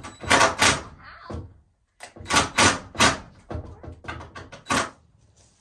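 Quick runs of sharp knocks, a few a second: a window frame being struck into its rough opening. There is a pause of about a second after the first run, and the knocks turn lighter near the end.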